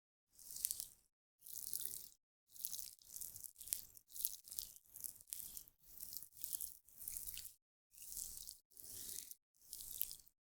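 Hands spreading a liquid serum close to the microphone: short wet, crackly rubbing strokes, about one and a half a second, each cut off by brief silence.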